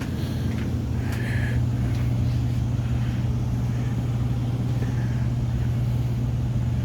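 Steady low hum of running furnace equipment, with a few faint scuffs.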